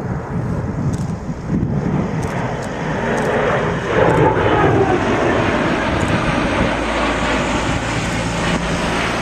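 Boeing C-17 Globemaster III's four turbofan engines during a low flyby, a loud steady jet noise that builds and is loudest from about four seconds in, its pitch falling as the aircraft passes.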